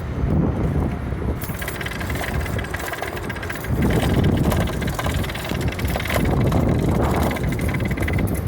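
Wind on the microphone and road noise while a bicycle is ridden: a low rumble that swells and eases, loudest about four seconds in and again toward the end.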